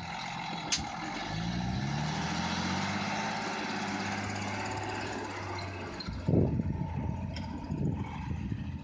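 SEE tractor's diesel engine revs up about a second in and holds steady under load while working the loader. A loud rough burst comes about six and a half seconds in, with a smaller one near eight seconds.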